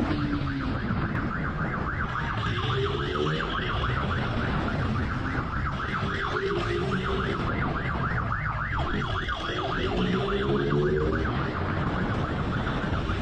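Police motorcycle siren wailing in a fast warble over the motorcycles' engines, which rev up in rising bursts a few times, with steady low road and wind rumble underneath.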